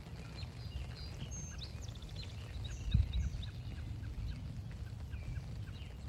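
Several songbirds chirping and calling, with a quick repeated note at about four a second joining from about halfway. A steady low rumble runs underneath, and a single thump comes about halfway through.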